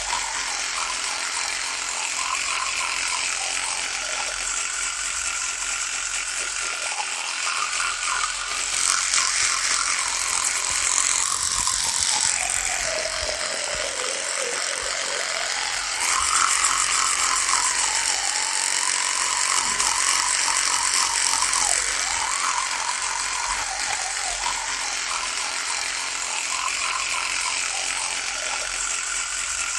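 Electric toothbrush running with a steady buzz whose pitch wavers, sinking noticeably lower for a couple of seconds around the middle before rising again.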